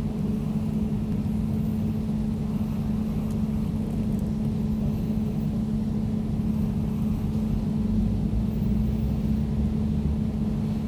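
Air conditioner running with a steady hum: one strong, constant low tone over an even low rumble.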